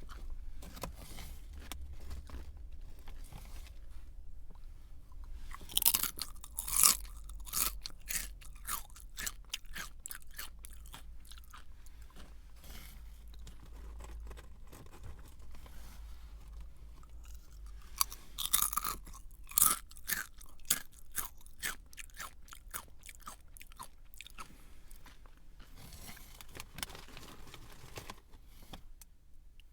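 A person chewing a crunchy snack close to the microphone: steady crackly chewing, with bursts of loud crunches about six seconds in and again around eighteen to twenty seconds in.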